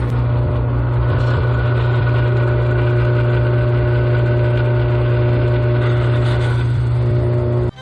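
Drill press electric motor running steadily with a strong, even hum, spinning a sanding disc for engine-turning a metal plate; it cuts off abruptly near the end.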